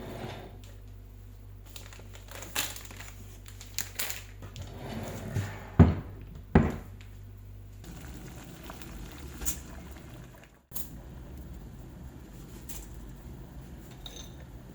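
Kitchen handling sounds: scattered light clicks, taps and rustles, with two sharper knocks a little before halfway.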